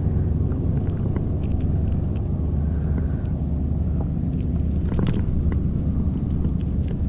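Wind rumbling steadily on the microphone, with faint scattered clicks and taps.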